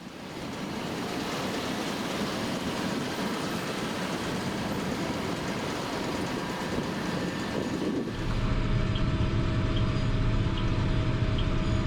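A Massey Ferguson MF5700S tractor's 4-cylinder 4.4-litre diesel engine running, at first heard as a noisy rumble. About eight seconds in the sound changes abruptly to a steadier, deeper engine drone with a faint tick about twice a second.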